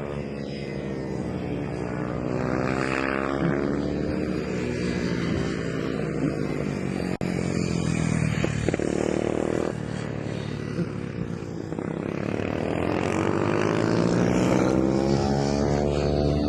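Several MIR 110cc racing minibikes running hard around the track, their high-revving engine notes rising and falling in pitch as the bikes pass by, several times over.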